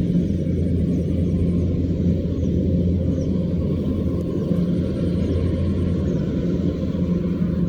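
Rice combine harvester's engine running steadily: a constant low hum that holds its pitch.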